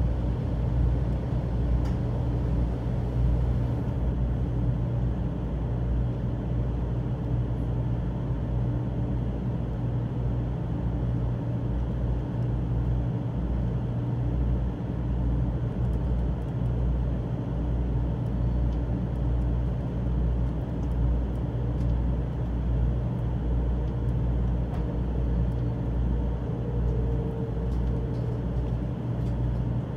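Steady low hum and rumble inside a Shinkansen carriage as the train rolls slowly along the station platform and comes to a stop.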